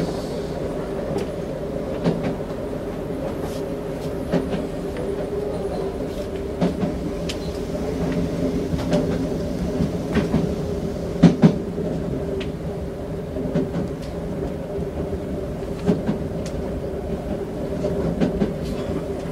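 Interior running noise of a Toei 5300 series commuter train under way: a steady hum with irregular clicks and clacks of the wheels over rail joints, a louder pair of clacks about eleven seconds in.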